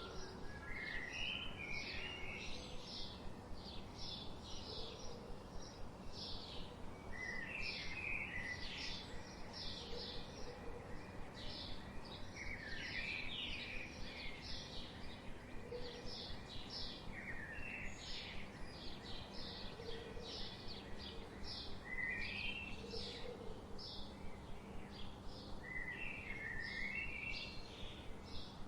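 Songbirds chirping and singing: a dense run of short, high chirps throughout, with a lower warbling phrase every few seconds, over a steady background hiss.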